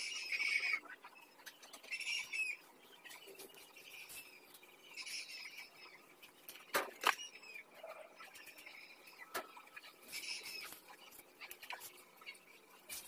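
Short bursts of high chirping, like small birds, recurring every few seconds, with a few sharp clicks about seven seconds in.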